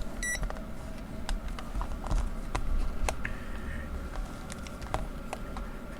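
Digital multimeter giving one short high beep, followed by scattered small plastic clicks and taps as the meter and its test probes are handled for a voltage measurement.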